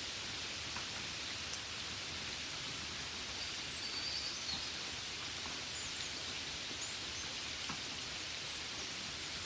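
Steady rain, an even hiss with scattered faint drop ticks. A few faint, short, high chirps come and go through the middle.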